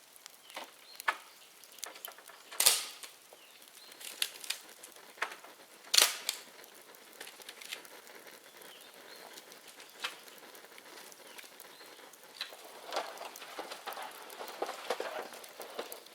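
Bonfire of dry dead bamboo crackling, with irregular sharp snaps and pops. The two loudest snaps come about three and six seconds in, and the crackling grows denser near the end.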